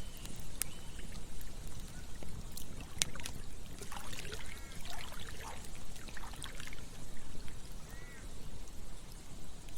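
Campfire crackling, with sharp pops over a steady low rush. A cluster of short warbling sounds comes about four to six seconds in, and again near eight seconds.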